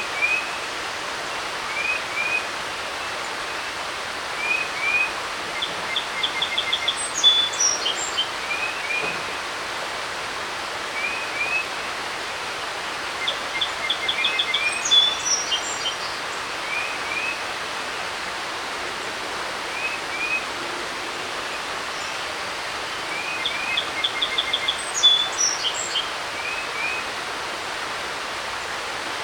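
A creek running steadily, with songbirds over it: one bird gives short paired rising chirps every couple of seconds, and another sings a phrase with a quick trill three times.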